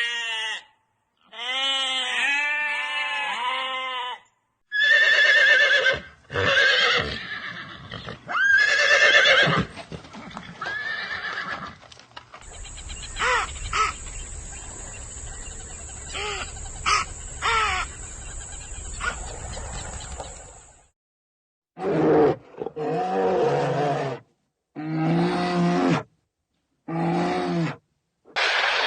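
A string of short animal calls from several different animals, separated by brief silences. In the middle there is a stretch of steady noise with a high whining tone and a few clicks, and the calls return lower-pitched near the end.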